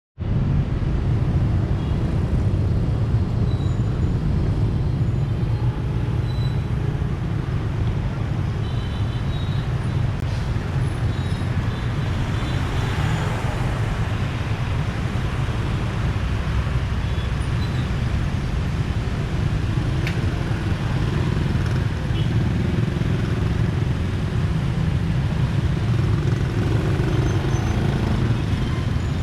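Motorbike riding through dense city traffic: a steady low rumble of engines and road noise.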